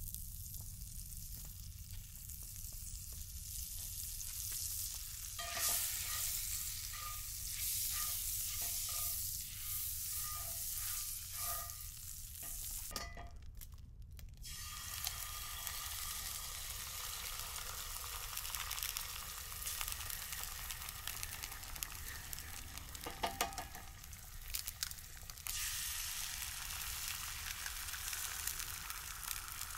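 Butter, and later eggs, sizzling and frying in a cast-iron skillet heated by a wood-burning rocket stove: a steady hiss with scattered pops and ticks.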